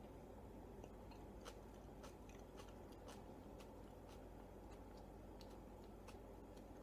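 Near silence with faint, scattered mouth clicks of someone chewing a soft naan wrap with the mouth closed, over a low steady room hum.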